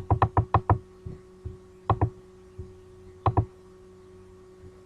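Computer mouse clicking: a quick run of about six clicks at the start, then two double-clicks about a second and a half apart, over a steady faint hum.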